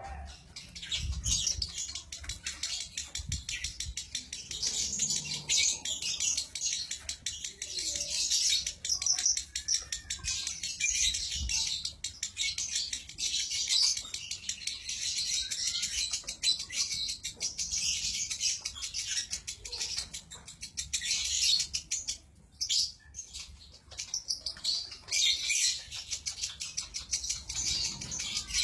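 Lovebird singing a long, unbroken run of rapid high-pitched chattering, the 'konslet' song prized by Indonesian lovebird keepers, with a short break about two-thirds of the way through.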